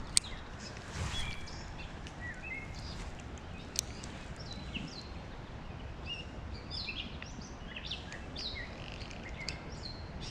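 Songbirds chirping and singing, many short calls one after another, over steady low outdoor background noise. There is a sharp click just after the start and another about four seconds in.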